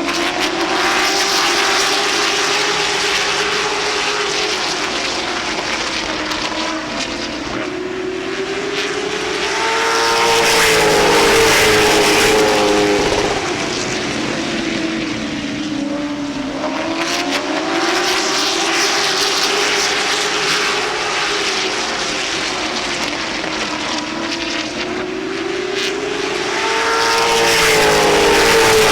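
Late model stock cars racing around an oval, their V8 engines rising in pitch down the straights and falling off into the turns in a repeating lap cycle. The field gets louder as it passes about ten seconds in and again near the end.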